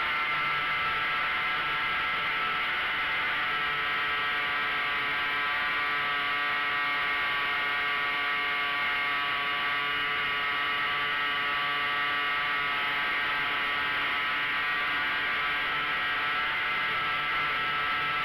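Hangar 9 Taylorcraft quarter-scale RC airplane's motor and propeller running steadily in flight, heard from a camera mounted on the airframe, with air rushing over the microphone. The pitch drifts slightly up and down.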